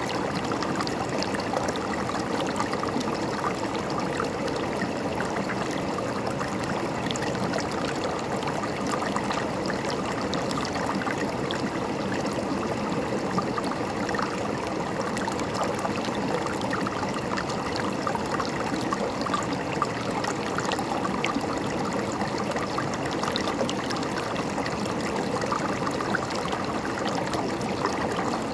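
River water flowing and gurgling over rocks: a steady, even rush with small splashes and trickles.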